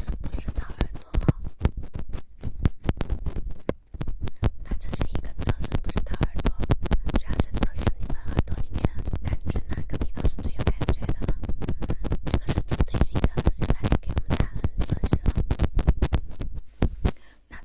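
Rapid, continuous tapping and scratching right on the microphone, many strikes a second, pausing briefly about four seconds in and again near the end.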